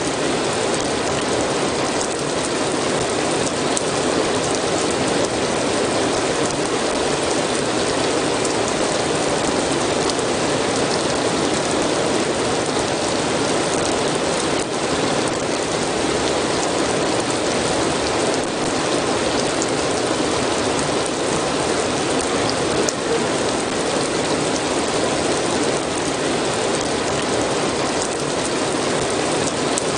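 Steady rain, a dense, even patter of drops with faint scattered ticks and no letup.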